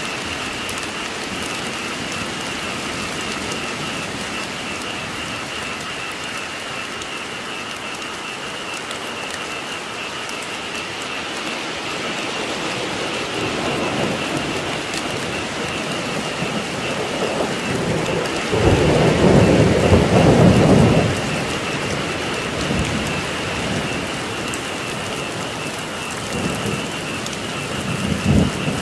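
Steady rain falling, with a chorus of frogs calling steadily and high. Thunder rumbles low several times, loudest in a roll from about two-thirds of the way through that lasts a few seconds.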